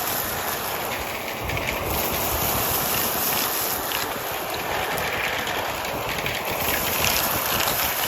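Vacuum cleaner running steadily with a hose tool, with scattered crunchy crackles of grit and debris being sucked up.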